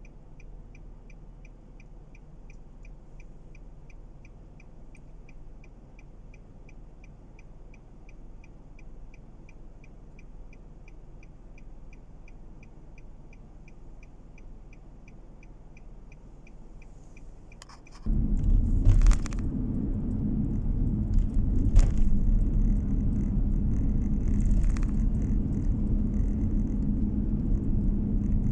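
Car interior: a faint low hum with a fast, regular high-pitched beeping, about three pips a second, for most of the first two thirds. About two thirds in, the beeping stops and a loud, steady engine and road rumble starts abruptly, with a few knocks on top.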